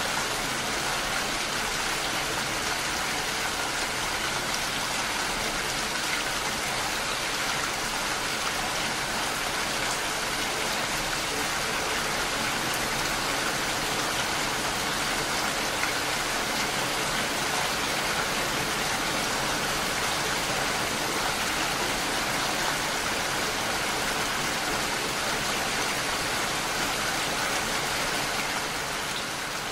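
Steady rainfall, an even hiss with no let-up, easing slightly near the end.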